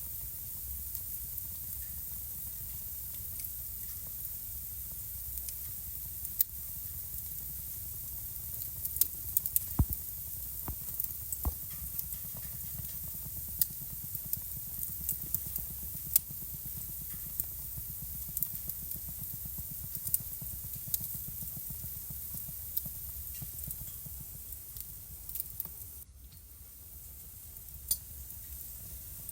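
Wood fire burning in a fireplace: a steady hiss and low rumble of the flames with scattered sharp crackles and pops, bunched most thickly about nine to eleven seconds in. The hiss dips briefly near the end.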